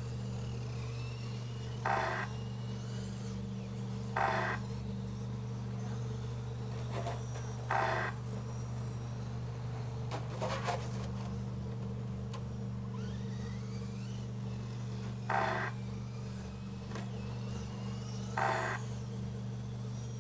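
Radio-controlled short course trucks racing: faint motor whines that rise and fall over a steady hum, with a short louder burst every few seconds.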